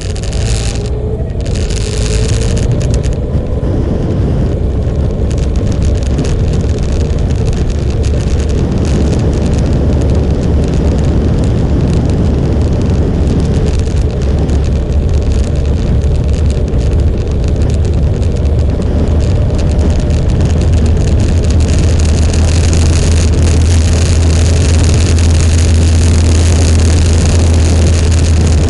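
Motorcycle running steadily while riding, a strong low engine drone under a broad rush of road noise; the drone grows louder in the last third.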